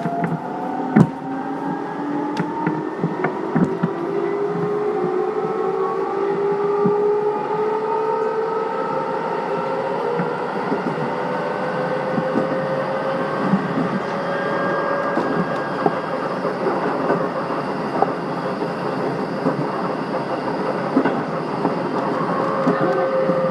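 Keihan 5000 series electric train running. Its motor whine rises in pitch over the first dozen seconds as the train accelerates, then holds steady at speed over the rumble of the wheels on the rails, with a few sharp wheel clicks over rail joints early in the run.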